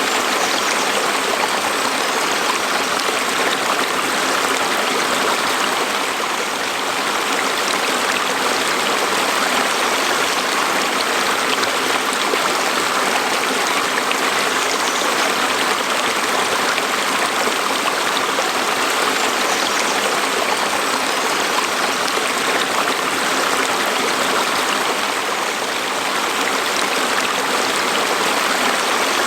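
Stream flowing: a steady rush and babble of running water.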